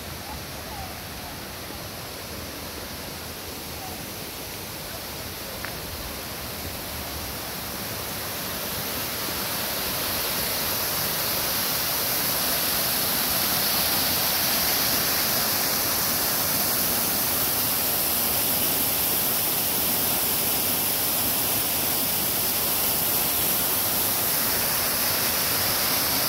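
Waterfall rushing: a steady roar of falling water that grows louder about a third of the way in and then holds.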